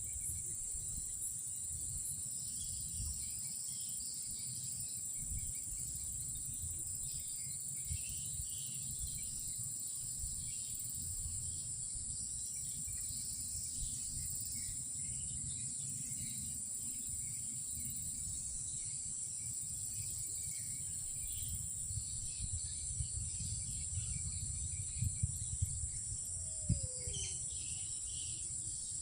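Night insects, crickets or similar, keep up a steady high-pitched drone over a low rumble. Near the end come a few faint clicks and a short falling call.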